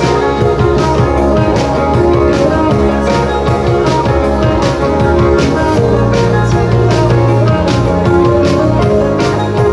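Rock band playing live: guitar and drum kit with a steady beat.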